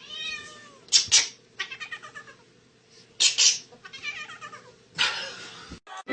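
A cat meowing and yowling over and over in drawn-out, arching calls, broken by several short, loud, harsh bursts.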